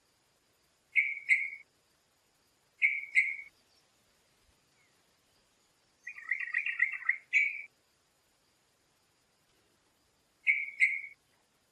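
A bird calling: short two-note calls about a second in, about three seconds in and near the end, and a longer, rapid chattering phrase in the middle.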